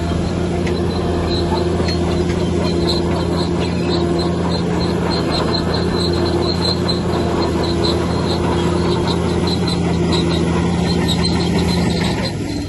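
Heavy diesel engine of a bulldozer running at a steady pitch, with a rhythmic high-pitched squeak from its steel tracks. The engine note drops briefly near the end.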